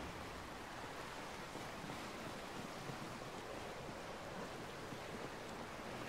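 Steady, faint hiss of background ambience with no distinct events.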